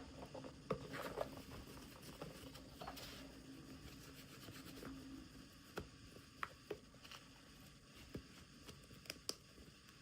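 Faint scattered clicks and taps with light rustling: small plastic toy pieces and packaging being handled during a miniature unboxing.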